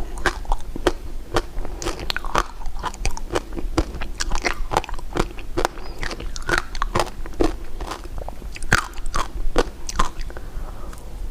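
Close-miked mukbang eating of candy and jelly sweets: steady biting and chewing with a quick run of sharp, crisp crunching clicks, two or three a second.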